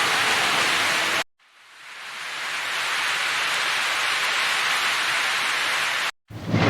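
Steady rain hiss that cuts off suddenly about a second in, then another stretch of rain fading in over a second or so and running steady, cut off again near the end.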